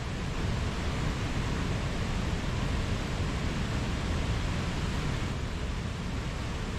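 Mountain stream rushing steadily over rocks, a constant even roar of water with no single splashes standing out.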